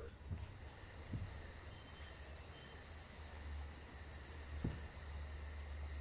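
Quiet room tone: a steady low hum under a faint, very high chirp pulsing about four times a second, with three soft knocks as a book and small items are handled on a table.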